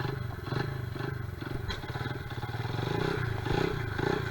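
Honda XR70R pit bike's small four-stroke single-cylinder engine running, its revs swelling and dropping irregularly as the throttle is worked.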